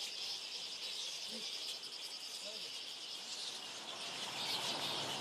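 Crickets or other insects chirring in a steady, rapid high-pitched pulse.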